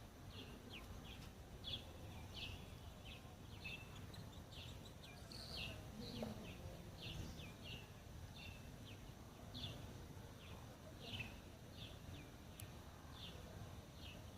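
Small birds chirping: short high chirps, about two a second, over a low steady outdoor rumble.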